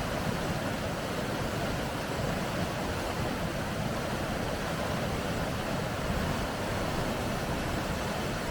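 Water rushing steadily through river rapids, a constant even noise with most of its weight low.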